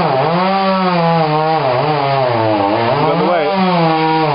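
Chainsaw engine running at high revs while cutting through wood, its pitch sagging under load and picking back up, dipping near the start and again about three seconds in.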